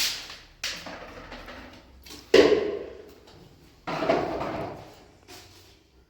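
A series of four sudden bangs, each fading out over about a second. The loudest comes about two and a half seconds in.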